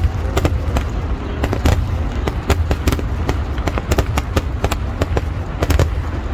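Fireworks going off in a rapid, irregular string of loud bangs, several a second, over a continuous deep rumble.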